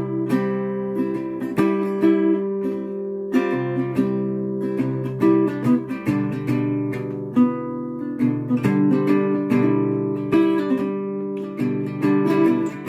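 Acoustic guitar playing a chord progression, its notes picked one after another and left ringing over steady bass notes.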